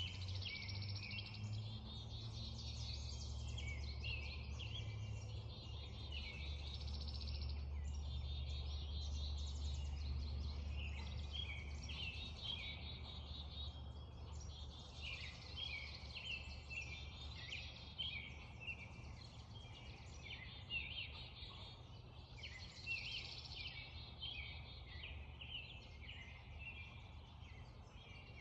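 Dawn chorus: many songbirds singing and chirping over one another without pause, over a steady low rumble.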